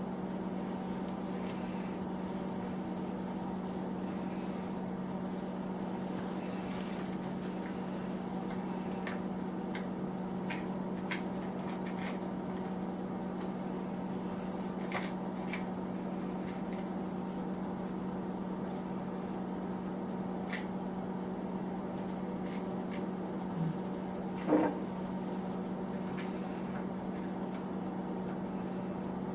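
Steady hum of a small space heater running, with scattered light clicks and one louder knock about twenty-four seconds in from parts being handled.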